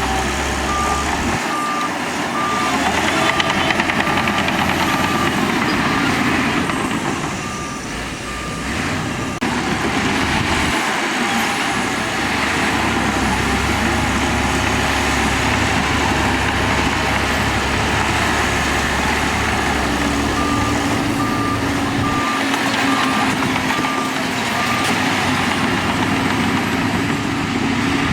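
Diesel engine of heavy earthmoving machinery running hard, with a reversing alarm beeping at an even pace in three separate spells: at the start, about eight seconds in, and again for several seconds past the twenty-second mark.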